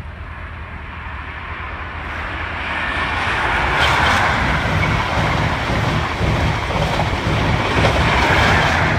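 InterCity 125 High Speed Train passing close by: diesel power cars running and coach wheels rumbling on the rails. It grows steadily louder over the first four seconds and stays loud as the coaches go by.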